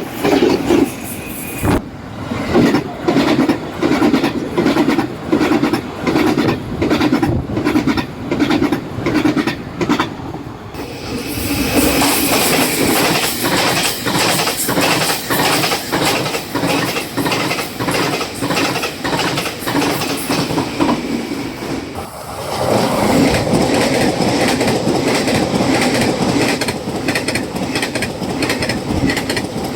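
Taiwan Railways trains passing at over 100 km/h, their wheels clacking in a steady rhythm over fishplate rail joints, with wheel and rail hiss. The sound changes abruptly about 11 and 22 seconds in as one pass gives way to the next.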